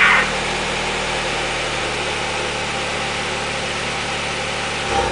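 Honda Accord engine idling steadily just after being started by a remote engine starter.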